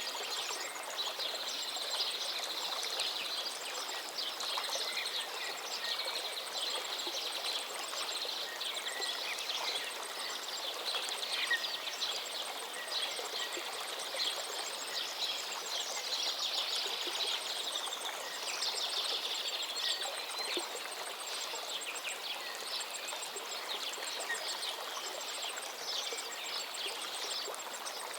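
Steady rush of a flowing forest river, with several songbirds singing over it in quick trills and repeated short notes.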